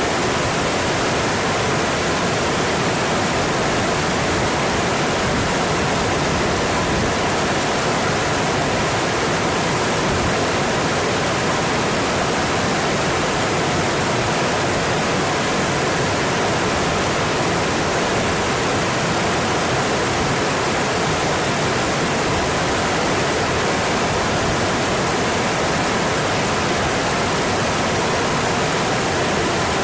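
Mountain stream flowing steadily, an even, unbroken rush of water.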